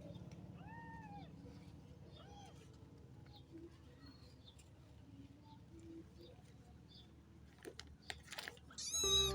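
Young kitten mewing: a thin, arched mew about half a second in, a fainter one around two seconds, and a louder high-pitched cry near the end, over a low steady hum.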